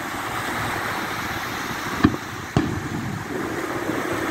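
Two aerial firework shells bursting with sharp booms about half a second apart, roughly two seconds in, over a steady rushing noise of wind and lake waves.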